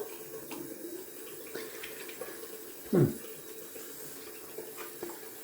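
Sink tap running while hands are rinsed under the water, with small splashes. About three seconds in there is one short, loud falling sound.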